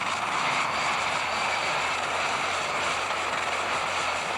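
Super stock pulling tractor's engine running flat out under load as it drags the weight-transfer sled down the track, a loud, steady sound that holds unchanged throughout.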